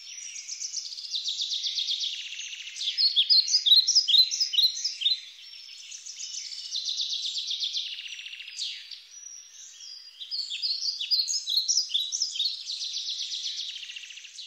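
Several birds singing: rapid trills alternate with short chirping notes, rising and falling in waves every few seconds.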